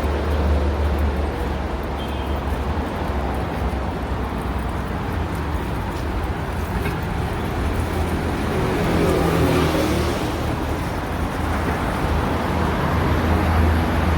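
Road traffic noise: a steady rumble of vehicles, with one vehicle's engine growing louder and passing about nine to ten seconds in.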